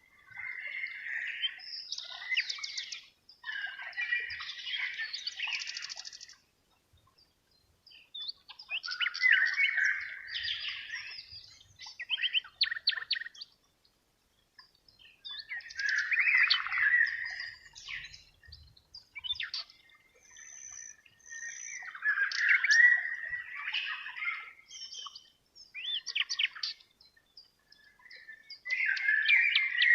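A songbird singing in repeated phrases of a few seconds each, rich with chirps and quick trills, separated by short pauses.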